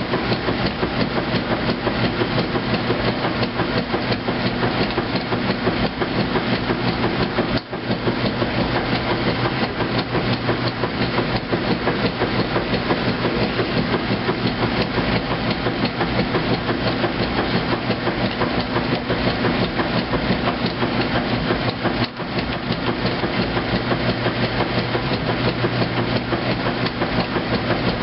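2008 Kenmore top-load washing machine agitating in its heavy duty cycle: a steady motor hum with a fast, even clatter of the agitator strokes, broken by two brief drops about eight and twenty-two seconds in.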